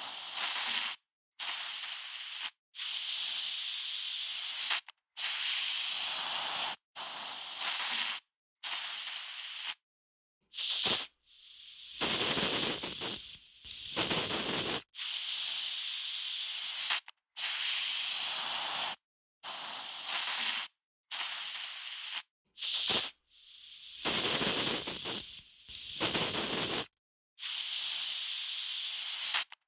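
Aerosol spray can spraying in a series of short hissing bursts, each a second or two long, separated by dead silence. Two longer bursts, one in the middle and one later on, are uneven and sputtering.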